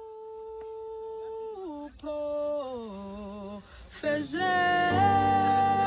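Intro music: a solo voice singing long held notes that step down in pitch, with more voices and backing music joining about four seconds in and getting louder.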